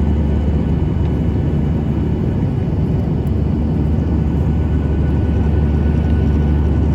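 Steady, loud cabin noise of a Boeing 737-800 in flight: a deep engine drone and rushing airflow heard from inside the passenger cabin.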